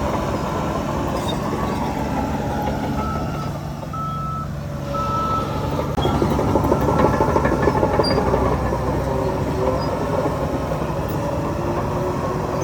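Heavy diesel earthmoving machinery running, with a reversing alarm giving short beeps about once a second in the first half. The engine noise grows louder about six seconds in.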